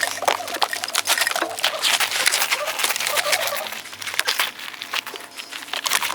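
Rapid crackling and scraping of caked river mud and debris being dug out of a car's interior, a dense run of small clicks and scrapes that eases a little near the end.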